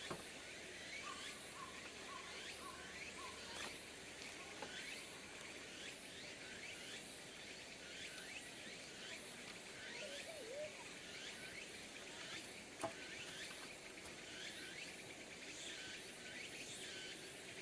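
Faint outdoor ambience of insects chirping: a steady chorus of short, high chirps repeating every second or so, with a single soft tap about two-thirds of the way through.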